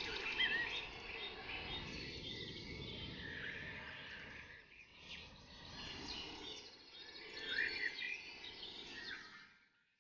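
Several forest birds chirping and singing in short overlapping calls and whistled glides, over a steady low rushing background. The whole sound fades almost to silence just before the end.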